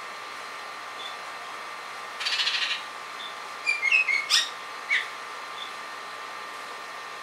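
Songbirds calling: a short dry chatter about two seconds in, then a quick run of sharp chirps about four seconds in and a single chirp a moment later, over a steady faint hum.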